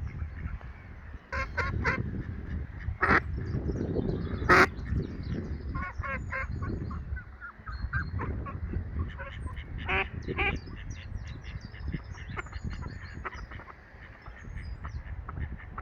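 Geese honking in short, separate calls scattered through, with faint high chirps of smaller birds and a steady low rumble underneath.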